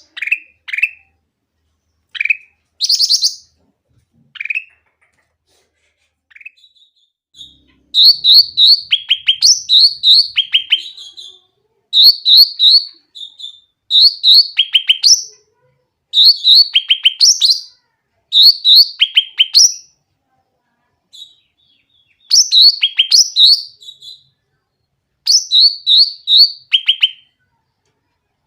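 Sooty-headed bulbul (cucak ranting) singing: a few scattered short calls at first, then, from about eight seconds in, repeated bursts of quick chirping phrases about every two seconds.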